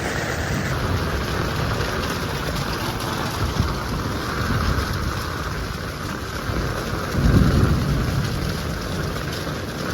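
Heavy rain falling steadily. About seven seconds in comes a short, louder low rumble.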